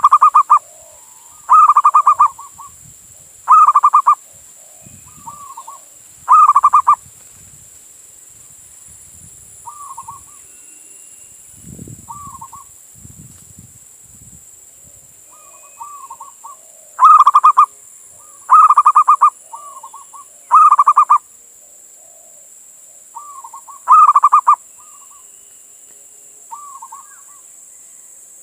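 Male zebra dove (perkutut) singing: loud, rapidly pulsed cooing phrases repeated about every two seconds in two bouts, with quieter coos between them and a long pause in the middle. A steady high hiss runs underneath.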